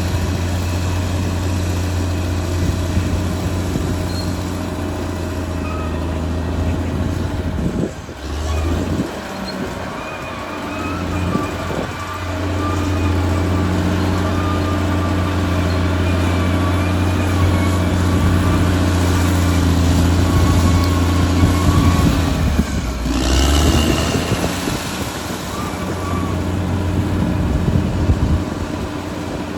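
Caterpillar D6R XL bulldozer's diesel engine running steadily at working revs, with a thin wavering squeal above it. The engine note drops and recovers briefly about eight seconds in and again a little past twenty seconds.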